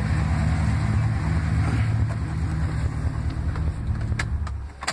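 5.2-litre Magnum V8 idling with a steady low pulse, then switched off near the end, its sound dying away.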